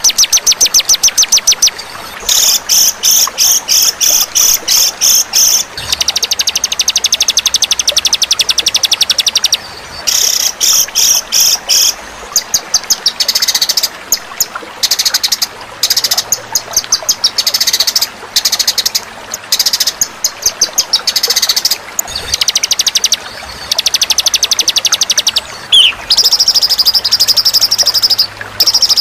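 Songbird masteran recording: loud, rapid rattling trills, one phrase after another with short breaks, and a short falling note near the end.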